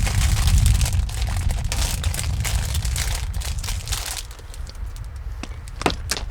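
Dense crinkling and crunching with many small sharp cracks over a low rumble, thinning out after about four seconds to a few separate clicks.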